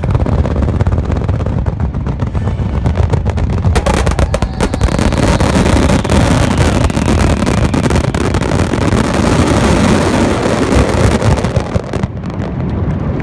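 Fireworks display with a steady low rumble of bursts; from about four seconds in, a dense, loud stretch of crackling shells that dies back near the end.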